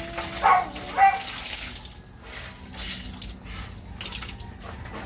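Water splashing and sloshing, as laundry is washed by hand in a basin.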